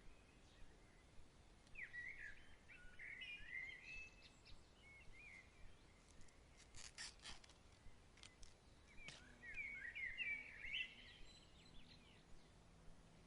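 Songbird singing two bursts of quick chirping, warbling phrases, about two seconds in and again around nine seconds, over a faint breeze-like hiss. A few sharp clicks come just before the seven-second mark.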